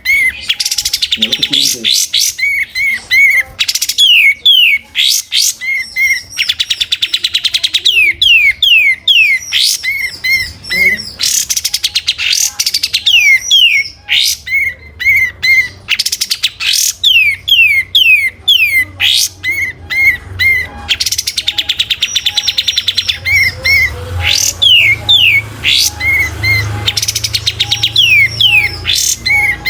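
Kapas tembak bulbul singing loudly and continuously: fast chattering trills, quick falling whistles and short paired notes, the same sequence of phrases coming round about every ten seconds as a looped song-training recording. A faint low hum lies under the second half.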